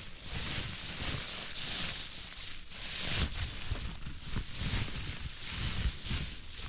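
Plastic bubble wrap crinkling and rustling as it is squeezed and crushed by hand, with small pops mixed into the crackle.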